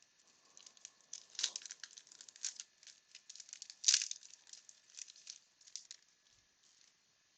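Wax-paper wrapper of a 1992 Bowman baseball card pack crinkling and tearing as it is opened by hand. The crackles come in quick bursts, loudest about one and a half and four seconds in, and die away after about six seconds.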